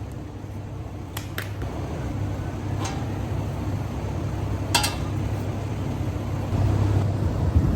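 Metal engine parts and tools clinking as they are handled, four short clinks over a steady low hum.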